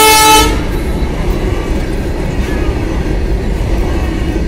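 Diesel locomotive's multi-tone air horn, cutting off about half a second in, followed by the steady low rumble and clatter of a long freight train's covered wagons rolling past close by.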